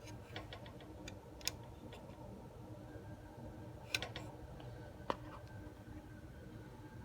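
Faint hiss and hum from a vintage solid-state AM tuner-receiver, broken by a few sharp clicks and crackles.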